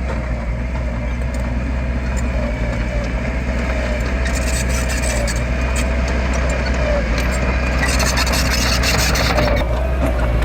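Heavy diesel earthmoving machinery engine running steadily, with a wavering whine over a deep drone. Bursts of hiss come about four seconds in and again near the end.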